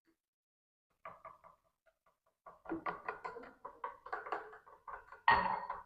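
A spoon clinking and scraping against a bowl while a drink is mixed: short, irregular knocks, with a louder clatter near the end.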